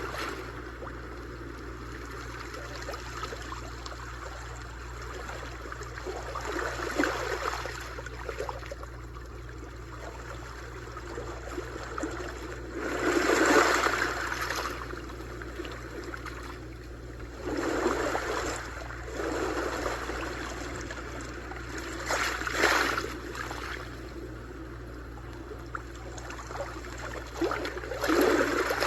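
Sea waves washing ashore: a steady hiss of surf that swells into a louder wash every four to six seconds, the biggest about halfway through, over a constant low rumble.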